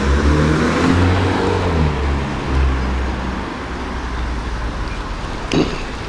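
Road traffic: a motor vehicle's engine running close by, loudest over the first three seconds and then fading, over a steady hiss. A brief sharp sound near the end.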